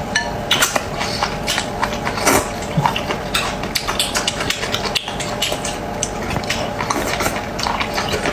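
Close-miked eating sounds of raw octopus being chewed, with frequent sharp clicks and taps of utensils against a dish.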